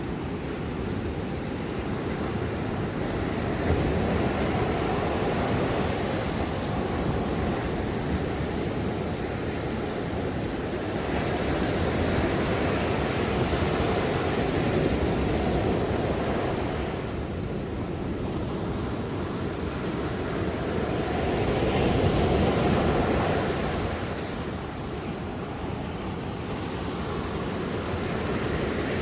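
Ocean waves breaking and washing on a shore, a steady rushing surf that swells and eases every several seconds.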